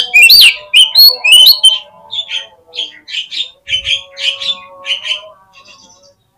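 Oriental magpie-robin (kacer) calling: loud, harsh repeated notes about three a second for the first two seconds, then quieter, shorter notes that trail off near the end.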